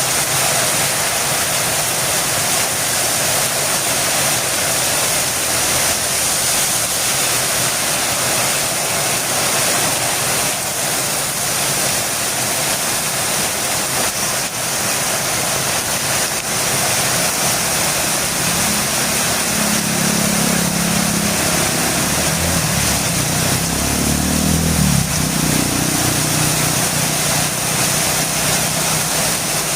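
Heavy rain falling steadily on a road, a dense even hiss. From about two-thirds of the way in, a vehicle engine hums underneath it, its pitch swooping up and down briefly near the end.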